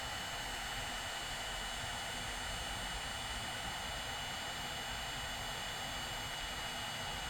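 Electric heat gun running steadily: a constant rush of blown air with a thin, steady high whine from its fan motor, heating the plastic of a tail light housing to soften it.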